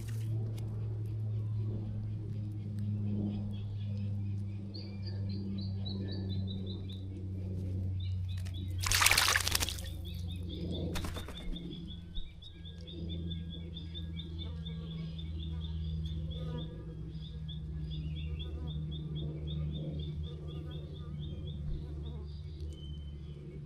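Water splashing in a bird bath as a bird bathes: one loud splash about nine seconds in and a shorter one about two seconds later. Birdsong with a long, rapid high trill carries on behind, over a steady low hum.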